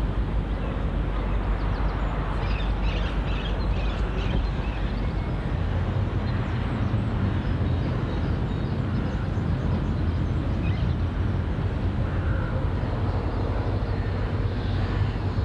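Steady low engine rumble, with faint high chirps about two to four seconds in.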